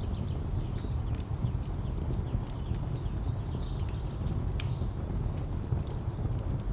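Fire crackling with scattered sharp pops over a steady low rumble of distant traffic. A bird chirps a few times about three to four and a half seconds in.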